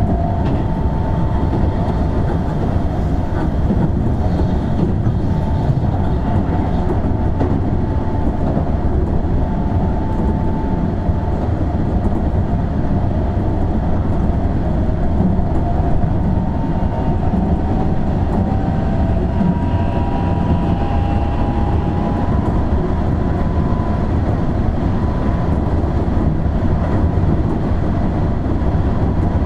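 Keihan 7200 series electric train running at a steady speed, heard from inside the car: a continuous rumble of wheels on rail, with faint whining tones that drift slightly in pitch.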